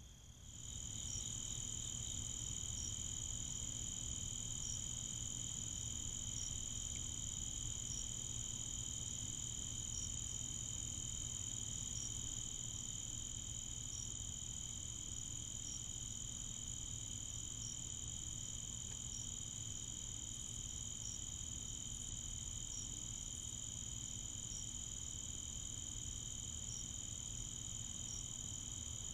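Steady chorus of insects such as crickets, a continuous high-pitched trill that sets in about half a second in, with a faint tick about every second and a half, over a low steady hum.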